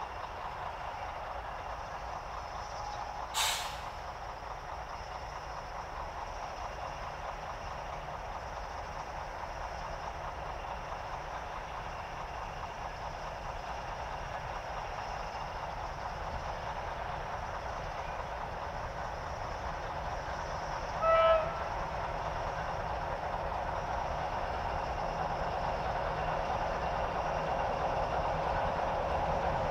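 Slow train headed by an S200 diesel locomotive approaching, its steady rumble growing louder. There is a sharp click a few seconds in, and a short horn toot about two-thirds of the way through.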